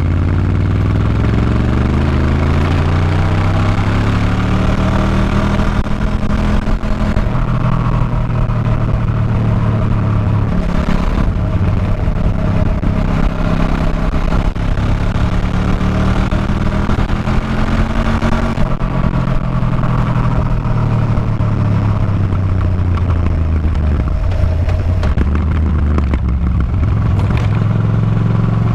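Motorcycle engine pulling through the gears: its pitch climbs over several seconds, then drops back at a shift or when the throttle eases, several times over, with a steady rush of wind noise.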